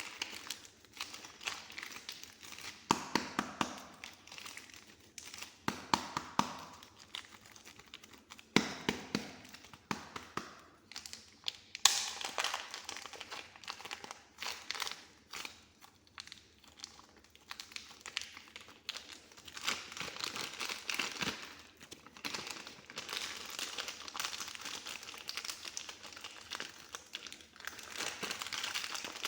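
Soft modelling clay being pressed, squeezed and stretched by hand close to the microphone, giving sticky crackling with many small clicks. It comes in several louder squeezes, then turns to denser, continuous crackling in the last third.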